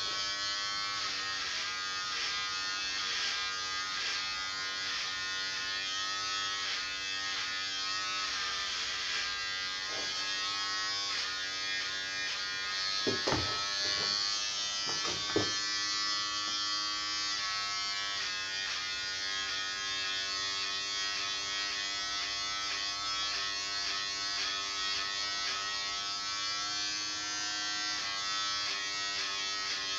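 Electric hair clippers buzzing steadily, the pitch shifting slightly as they cut, with a few brief knocks about halfway through.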